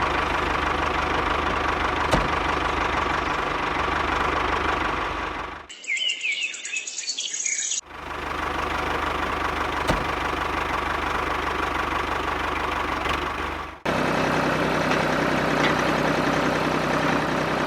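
A small motor runs steadily in several clips cut together, with a short stretch of bird chirping about six seconds in.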